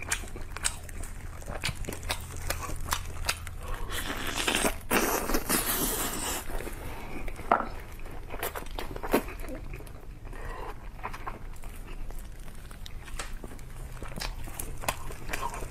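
Close-miked chewing of braised chicken wings, with many small wet clicks from the mouth and the crinkle of clear plastic food gloves handling the meat. A longer rustling noise comes about four to six seconds in.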